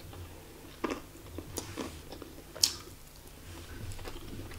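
A person chewing a mouthful of food, with several short, sharp crunches and clicks; the loudest comes a little past halfway.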